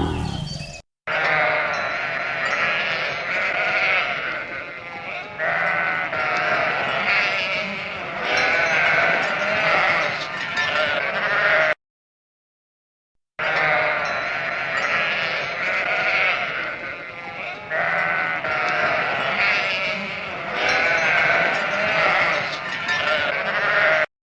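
A flock of sheep bleating, many overlapping wavering calls. The same stretch plays twice, with a short silent gap about halfway.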